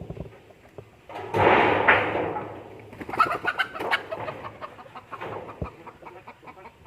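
A bird calling loudly about a second in, followed by a run of short, quick notes that fade away.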